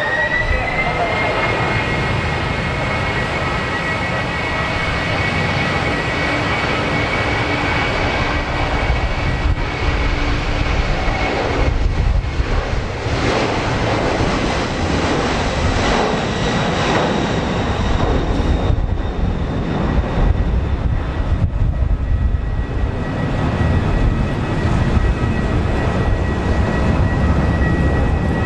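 Jet airliner's engines at high power: a high whine that rises just at the start and then holds steady, over a heavy low rumble, as on a takeoff run. Gusty wind on the microphone.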